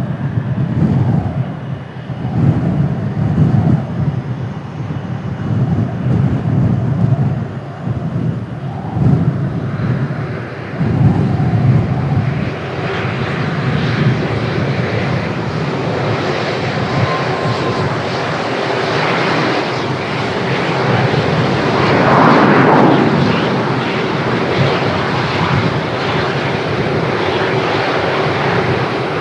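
Jet airliner engines: a low, wavering rumble at first, then, about twelve seconds in, a fuller and louder jet noise with a steady hum in it that swells to a peak about three quarters through and stays strong to the end.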